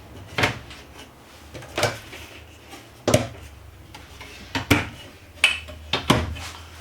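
Cabinet doors and drawers clacking as they are opened and shut, about eight irregular knocks with a couple close together near the end, over a low steady hum.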